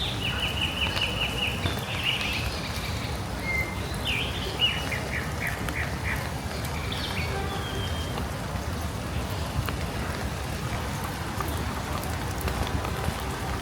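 Steady rain falling, with a bird calling in rapid runs of high chirps in the first five seconds and a few fainter calls later.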